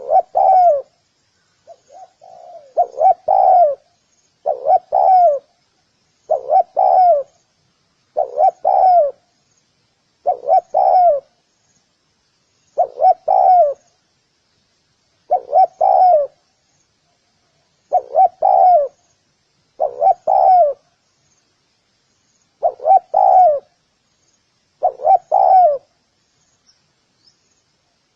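Spotted dove cooing its song over and over: a short phrase of two or three coos about every two seconds, with a longer pause near the end. Faint high chirping runs underneath.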